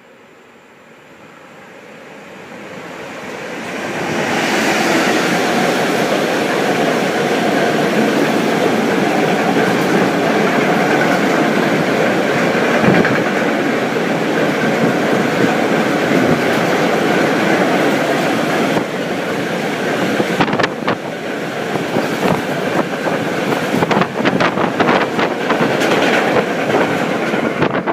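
Freight train of double-deck car-carrier wagons passing through a station at speed: it grows louder over the first four seconds as it approaches, then a steady rumble of wheels and wagons. In the last third, rapid clickety-clack of wheels over rail joints.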